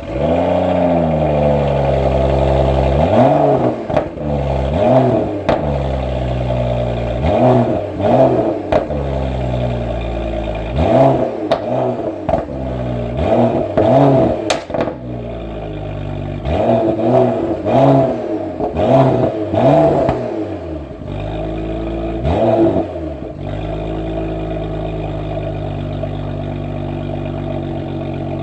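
BMW E92 335i's N55 turbocharged inline-six with an M Performance exhaust, cold-started: it fires right at the start, is blipped in a long string of quick revs for about twenty seconds, then settles into a steady idle.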